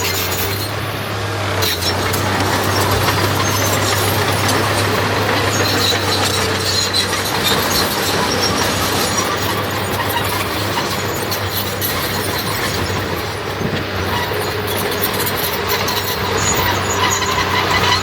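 Diesel earthmoving machinery running steadily under load, a continuous low engine hum with mechanical noise over it.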